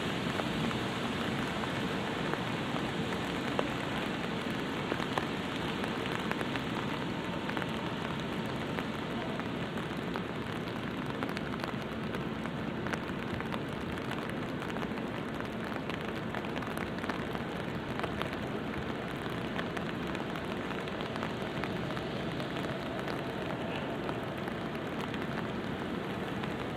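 Light rain pattering on an umbrella: a steady hiss of rainfall dotted with many small drop ticks.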